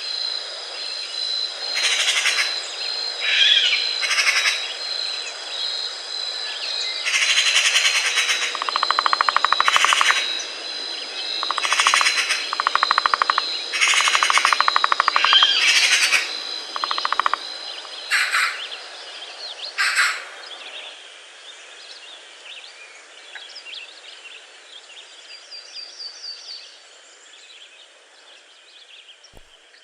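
Forest birds calling: a series of loud, harsh calls a second or two apart, some drawn out into fast rattles, dying away after about twenty seconds into fainter chirping. Under them runs a steady, fast-pulsing high note that stops about two-thirds of the way in.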